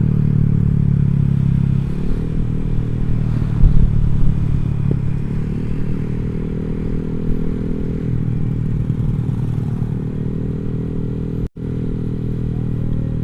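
Honda Vario 150 scooter's single-cylinder engine running under way through an aftermarket Black Devil R2 Seca exhaust. It gives a steady low exhaust note that eases slightly about two seconds in. The sound cuts out for an instant near the end.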